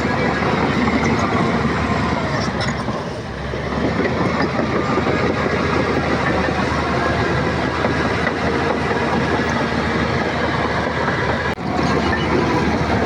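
Shantui crawler bulldozer working: a diesel engine running under load with the clanking clatter of its steel tracks.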